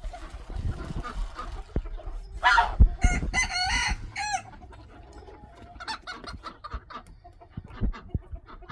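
A rooster crows once, starting about two and a half seconds in and lasting nearly two seconds, followed by fainter short clucking calls.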